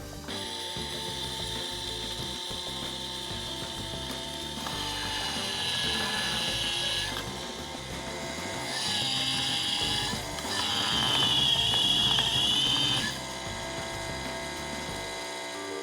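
Small high-torque electric gear motor running with a 3D-printed gear on its shaft, giving a steady whine and gear-mesh whirr. It swells louder three times and stops shortly before the end.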